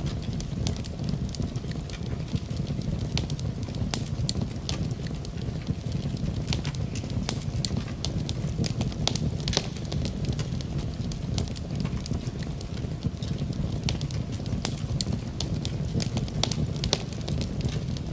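Wood fire crackling and popping, with irregular sharp snaps over a steady low rumble of the flames.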